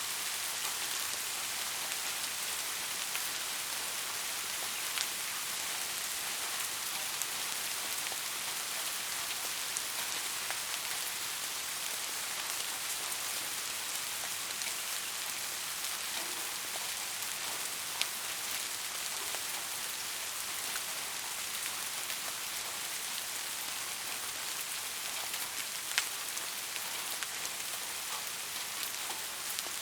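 Steady rain falling, an even hiss of drops on hard surfaces with scattered individual drop ticks, a few sharper ones standing out.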